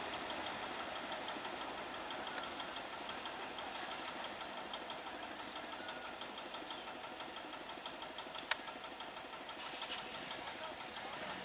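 EMU electric local train approaching on the track, a steady, fairly faint running noise. A single sharp click comes about eight and a half seconds in.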